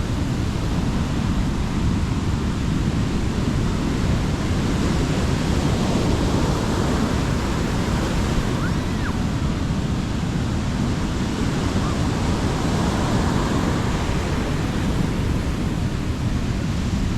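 Sea waves washing steadily onto a beach, with wind rumbling on the microphone.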